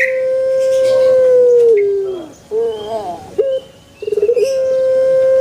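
Male Barbary dove (burung puter) cooing: a long held coo that drops lower at its end, two short notes, then a quick stuttering run leading into another long held coo.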